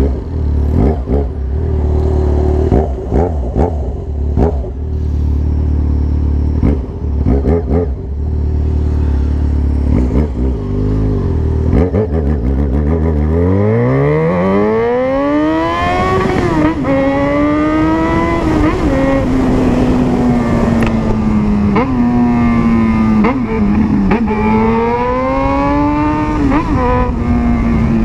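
Yamaha XJ6's 600 cc inline-four running through an aftermarket Jeskap exhaust. For about 13 seconds it idles with a steady low note and scattered crackles, then the revs rise sharply as the bike pulls away. The pitch dips briefly, like a gear change, then holds a steady riding note with small rises, easing off near the end.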